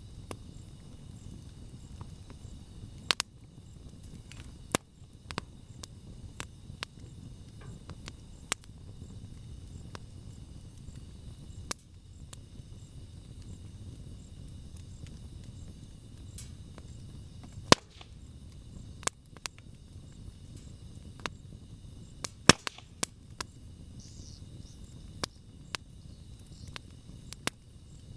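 Wood campfire burning: a low steady rush of flame under scattered sharp crackles and pops of burning wood, the two loudest pops about 18 and 22 seconds in.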